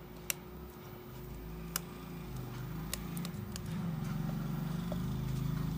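Low engine rumble growing louder over several seconds, like a motor vehicle going by, with a few sharp small clicks.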